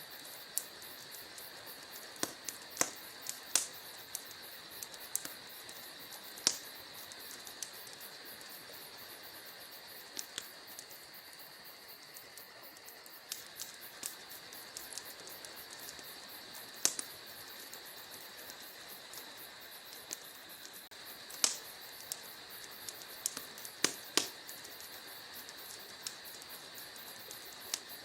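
Wood fire crackling: irregular sharp pops and snaps, a few of them louder, over a steady high hiss.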